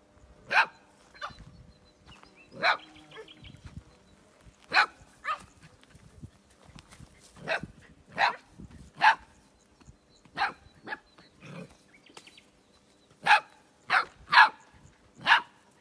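Small dogs barking: about fourteen short, sharp barks at irregular intervals, some in quick pairs.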